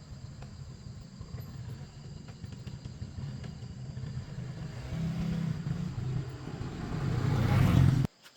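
A motor running with a low rumbling hum that grows steadily louder, swelling most in the last couple of seconds, then cuts off abruptly near the end.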